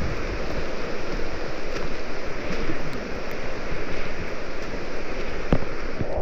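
Steady, even rushing of water with no pauses, and a few faint clicks over it.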